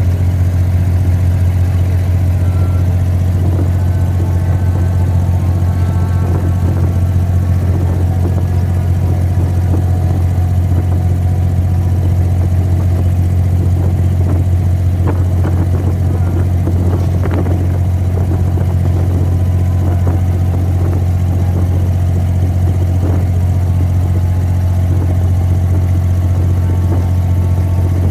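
Abra water-taxi's diesel engine running steadily with a constant low hum.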